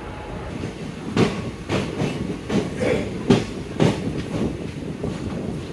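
Passenger train coach rolling on the rails with a steady rumble; from about a second in, its wheels clack over rail joints about seven times, roughly two a second, then ease off.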